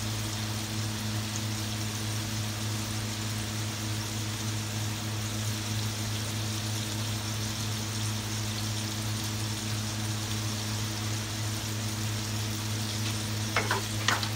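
Sea cucumber pieces and garlic frying in oil in a wok, a steady sizzle over a steady low hum. Near the end a wooden spatula scrapes and knocks against the wok a few times as stirring starts.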